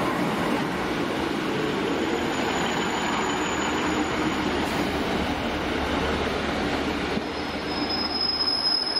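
British Rail Class 150 Sprinter diesel multiple unit drawing slowly along the platform to a stop, with a steady rumble of engine and wheels close by. A thin high squeal sounds briefly about two seconds in, and again from about seven and a half seconds as the train comes to a halt.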